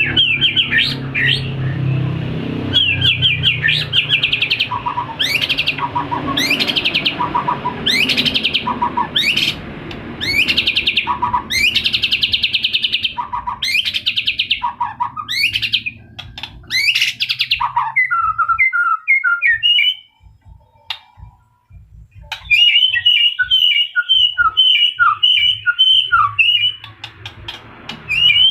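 White-rumped shama singing: a string of loud whistled phrases that sweep upward, repeated about once a second, then, after a short pause, a quick run of short chattering notes.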